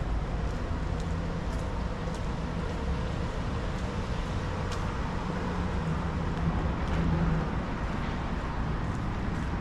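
Street traffic: cars running and passing with a steady low rumble, one swelling briefly about two-thirds of the way in, with a few faint clicks over it.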